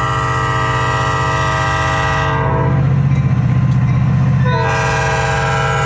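Train's air horn sounding a chord of several steady notes over a loud low locomotive rumble; the horn breaks off about two seconds in and sounds again near the end.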